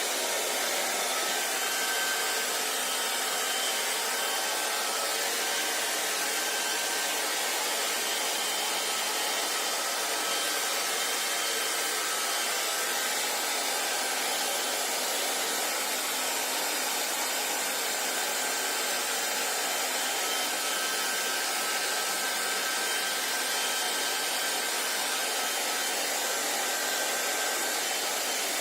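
Hair dryer running steadily on one setting: an even rush of air with a faint high whine from the motor.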